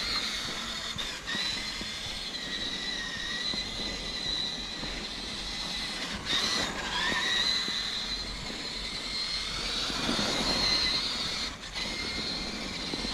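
Electric motor and gearbox whine of a radio-controlled truck driving through snow. A high, steady whine rises and falls with the throttle and briefly drops out twice.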